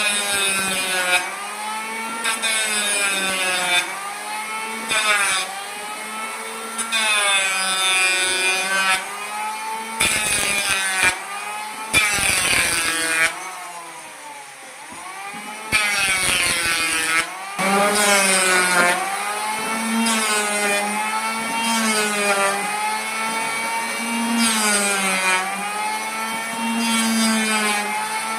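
Electric power tool cutting wood, its motor pitch repeatedly sagging under load and recovering, with louder noisy cutting bursts partway through.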